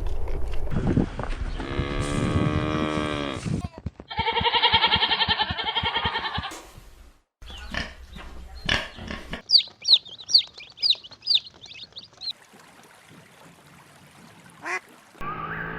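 Cow mooing, one low drawn-out call. It is followed by a higher, wavering animal call and, later, a run of about nine quick high chirps.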